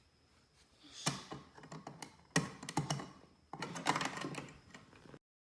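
Rapid clattering clicks and taps in three bunches, then the sound cuts off suddenly.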